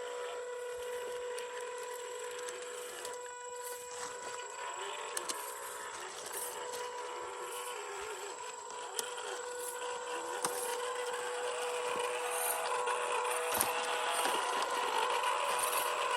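Small electric motor and gearbox of a 1/12-scale MN128 RC Jeep crawler whining, the pitch wavering up and down with the throttle over a steady high tone, with occasional sharp clicks. It grows louder toward the end.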